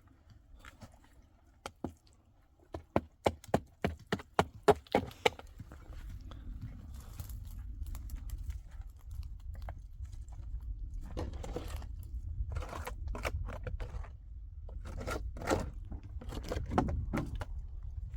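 A quick run of sharp knocks, about three a second, then scraping and crunching over a low rumble.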